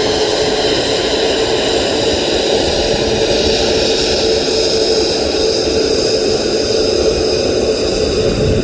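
Boeing 737's jet engines running loud and steady: a roar with a steady drone and a high whine on top.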